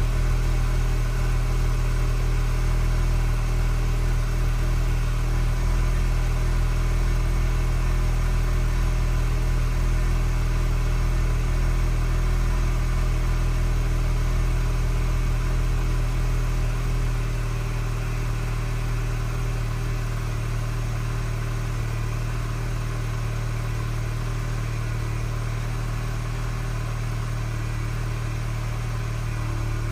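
2012 Mini Cooper's four-cylinder engine idling steadily just after a cold start. The idle steps down a little in loudness about halfway through.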